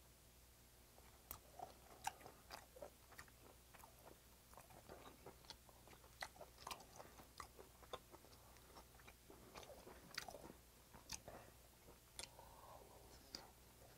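Faint close-miked chewing of seasoned cockles: soft, wet mouth clicks and smacks coming irregularly, several a second.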